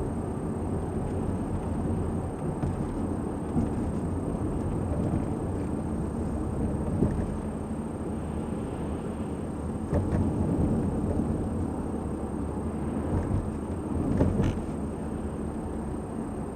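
Steady low rumble of a car driving on the road, with a few light knocks.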